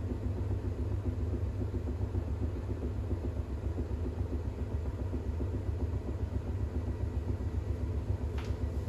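Bosch WAX32GH1 front-loading washing machine spinning a towel load in its intermediate spin, a steady rumble from the turning drum with a faint hum. Near the end there is one brief rising squeak, the kind of rubbing the owner hears from the rubber door seal during unbalanced spins.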